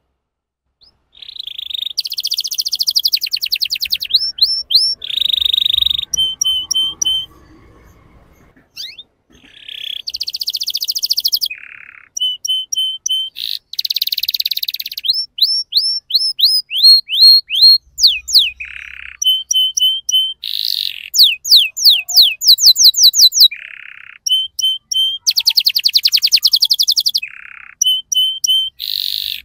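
Domestic canary singing: a long song of fast trills and runs of rising, whistled notes in phrases, with short pauses between them.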